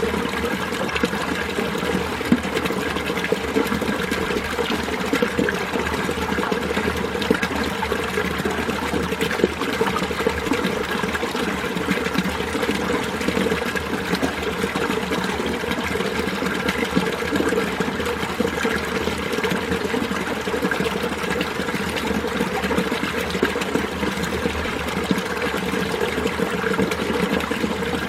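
Winter mountain stream flowing and babbling steadily.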